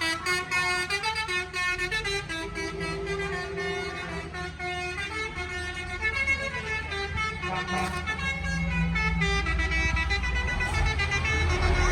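Vehicle horns sounding a run of pitched notes that step from one pitch to another like a tune, the kind of musical horn heard on show trucks. Underneath, heavy engine rumble grows louder toward the end.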